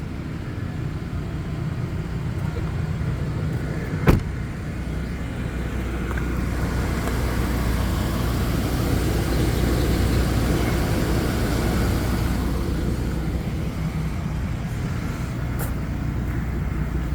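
Ford F550 service truck's engine idling steadily, with a single sharp click about four seconds in.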